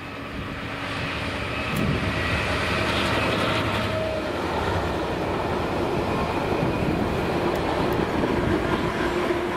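GBRf Class 66 diesel freight locomotive and its train of flat wagons passing close by: a steady rumble of engine and wheels on the rails that builds over the first couple of seconds and then holds.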